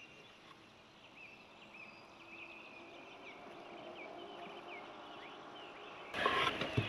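Birds calling with many short, repeated chirps over a soft outdoor background. About six seconds in, a sudden, louder burst of rustling and knocks takes over.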